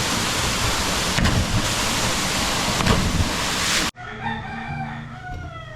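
Steady rush of a waterfall that cuts off suddenly about four seconds in, followed by a rooster crowing against a much quieter background.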